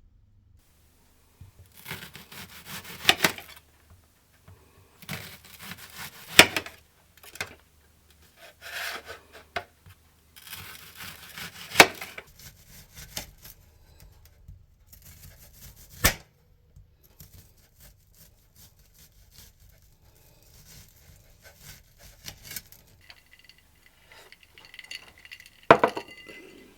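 Repeated bursts of tearing and rubbing, each with a sharp crack, a few seconds apart; near the end, light ringing clinks and one more crack.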